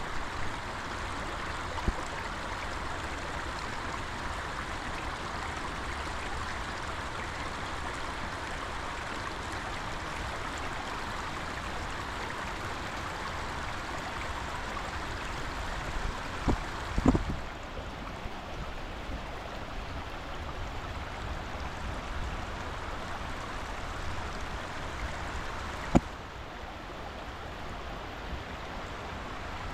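Steady rush of flowing water, like a stream, with a couple of sharp knocks: the loudest a little past halfway, another a few seconds before the end.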